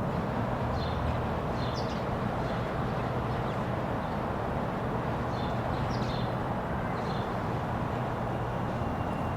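Scattered short bird chirps, a few in quick clusters, over a steady low rumble of city background noise.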